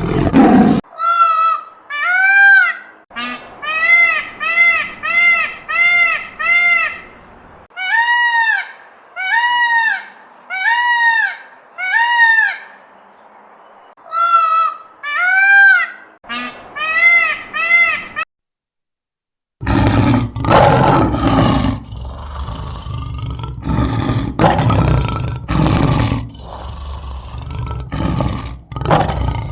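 Two animal recordings, one after the other. First a string of short calls, each rising and falling in pitch, about one a second with some paused stretches. Then, after a brief break, a different animal's rough, noisy calls repeating one after another.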